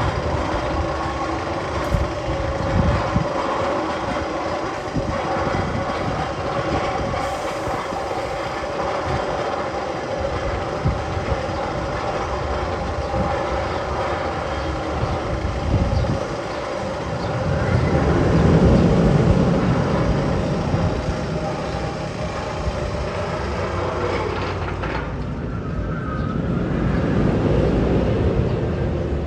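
Magnum XL 200's steel roller coaster train rolling on its track: a continuous rumble with steady pitched wheel tones. It swells louder about two-thirds of the way through and again near the end.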